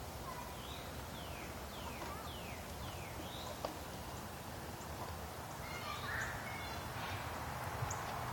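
A songbird whistling a run of about five clear notes, each sliding down in pitch, roughly two a second. A few more whistled notes follow later, over a steady low background noise.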